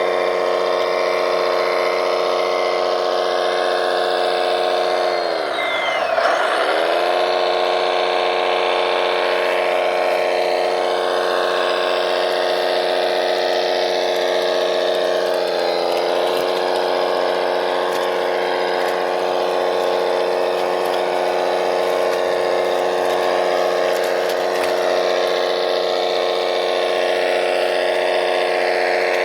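Electric motor and gearbox of an RC model vehicle whining steadily, the pitch dropping sharply and coming back up about six seconds in, and dipping briefly again a little past the middle.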